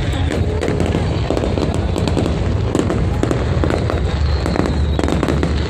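Fireworks display going off: many quick cracks and pops over a continuous low rumble.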